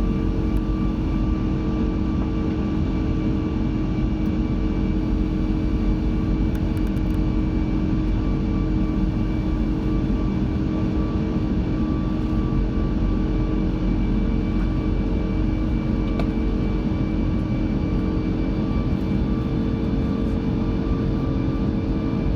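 Steady cabin noise of an Airbus A340-600 in flight, the four Rolls-Royce Trent 500 engines and airflow making an even low rush with a few faint steady tones over it.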